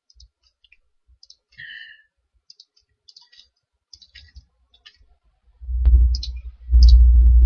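Computer mouse clicking lightly and irregularly, then about six seconds in a loud low rumble on the microphone, twice in a row.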